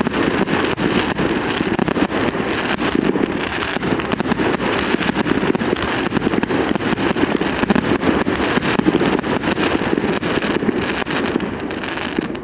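Dense fireworks barrage: many rapid overlapping bangs and crackles merging into a continuous rumble, steady and loud.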